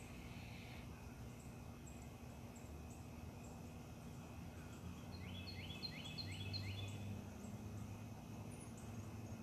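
Wild birds singing: one bird gives a quick run of about six slurred whistled notes about five seconds in, while another adds scattered high, thin chirps. A steady low hum runs underneath.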